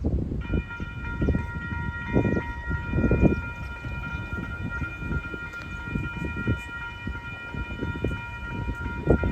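Diesel locomotive air horn starting about half a second in and held as one long steady chord, over the low rumble and clatter of a train rolling past.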